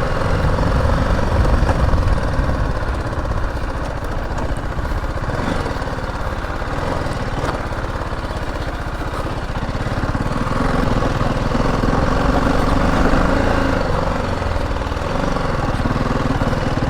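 BMW G 310 GS single-cylinder motorcycle engine running under way, its note swelling and easing a few times with the throttle.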